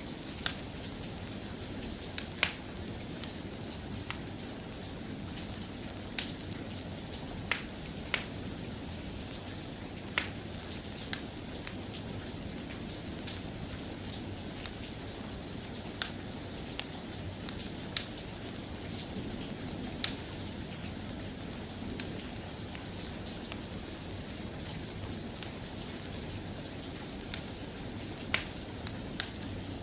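Steady, soft rain with occasional sharp clicks scattered through it, about one every second or two.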